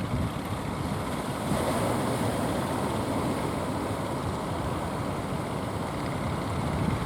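Strong wind and surf: a steady rushing rumble.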